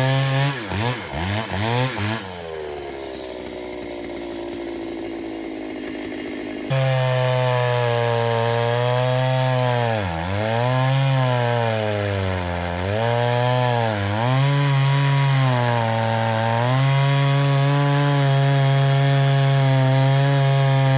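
Two-stroke engine of a vintage Pioneer Farmsaw chainsaw, revved up and down a few times and then dropping back and running lower and quieter. About seven seconds in it is at full throttle, its pitch sagging several times as it bogs under load in the cut, then holding steady.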